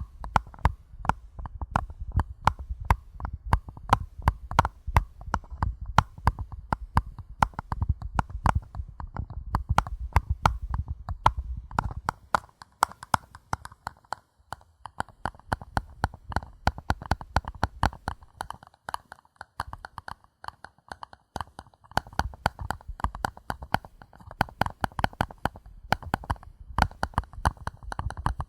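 Paper cups being tapped with the fingers in quick, irregular taps, several a second. The taps have a dull low thud under them for the first twelve seconds or so, turn thin and light for about ten seconds, then take on the thud again near the end.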